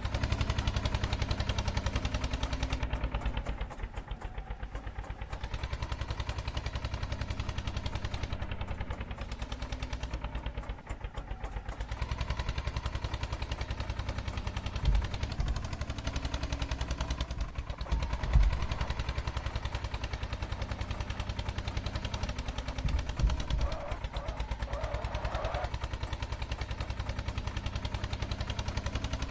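Eicher tractor's diesel engine running with a steady, rapid chugging beat. A few sharp knocks and short rattles stand out over it, around the middle and again later on.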